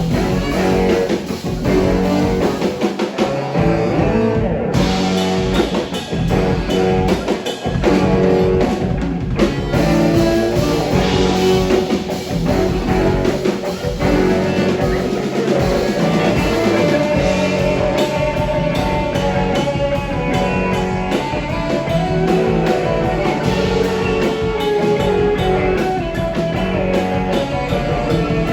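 Live rock band playing, with guitar over a drum kit.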